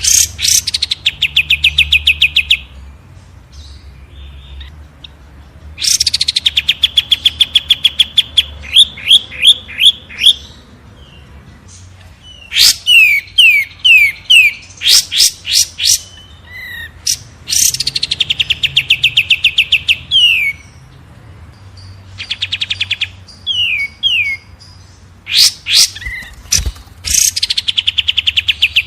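Songbird singing repeated phrases, roughly every six seconds: each opens with a high downward sweep that runs into a fast, rattling trill, followed by a few separate slurred notes.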